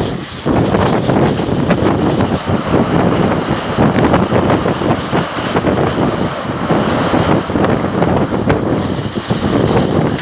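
Janmabhoomi Express running at speed: steady rumble of the wheels on the rails with wind buffeting the microphone held out of the coach, and a few sharp clicks.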